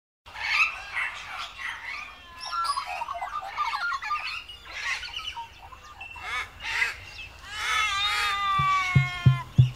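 Birds calling: a busy mix of warbles, squawks and falling whistled notes. A steady low drum beat of about three thumps a second comes in near the end.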